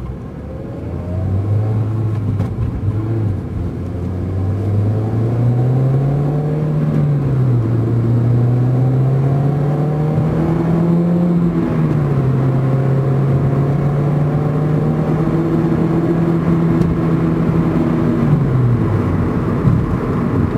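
Turbocharged car engine heard from inside the cabin, pulling up through the revs with the pitch rising, dropping sharply at gear changes about seven and twelve seconds in, then holding steady before falling away as the car slows near the end.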